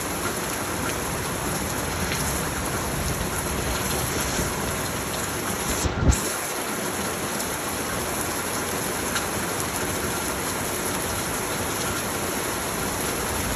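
Heavy rain falling steadily, a dense even hiss of rain in a thunderstorm. About halfway through there is one brief low thump.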